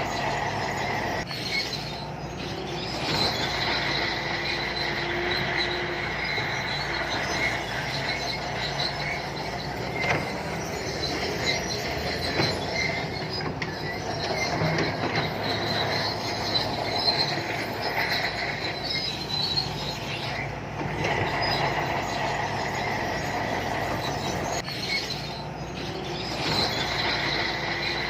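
Shantui crawler bulldozer at work: the diesel engine running steadily under high-pitched squealing from the steel tracks.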